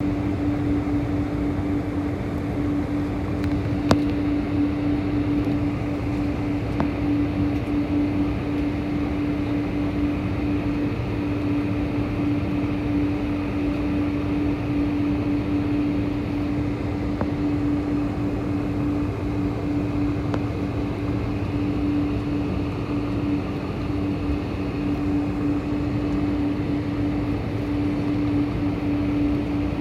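Steady cabin noise of a Boeing 747-400 with Pratt & Whitney PW4056 engines: an even rush of air and engine noise with a constant low drone, broken only by one sharp click about four seconds in.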